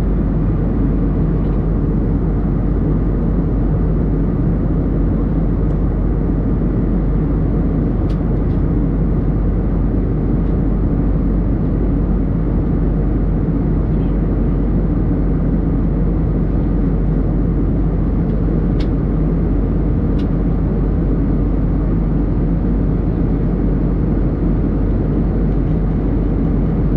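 Steady drone of an airliner in flight, heard from inside the cabin: engine and air noise with no change in level.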